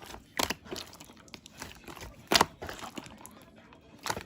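Close crunching and crinkling noises, with three sharper cracks about two seconds apart, the loudest near the middle.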